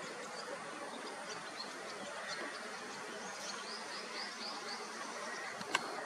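Small bird calling: scattered short, high chirps, then a quick run of about six down-slurred chirps in the middle, over steady background noise. A single sharp click near the end.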